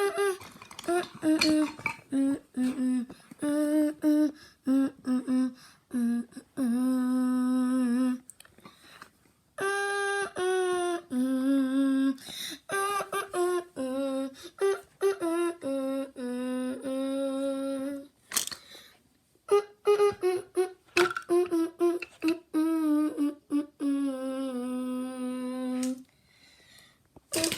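A person humming a tune in stepped notes, some short and some held for a second or more, with brief pauses and a couple of sharp clicks between phrases.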